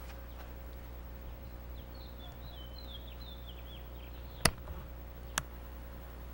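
A short run of high, quick chirps, like a small bird, about two seconds in. Two sharp clicks follow about a second apart, the first the louder, over a steady low hum.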